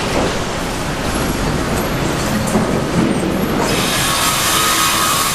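Sawmill machinery running with a loud, steady noise. About two-thirds through, a brighter hiss and a thin high tone come in.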